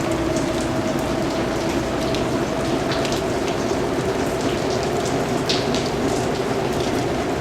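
Steady rain falling, with individual drops ticking sharply here and there over an even hiss, and a faint low steady hum beneath.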